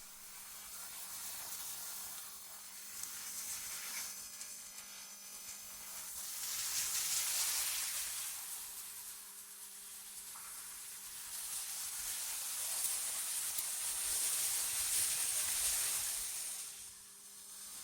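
Synthetic wind ambience: a high hiss that swells and fades in slow gusts, loudest about seven seconds in and again near the end, over a faint steady low hum.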